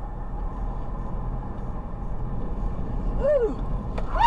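Steady low road and engine noise of a moving car, with a short pitched sound that rises and falls about three seconds in.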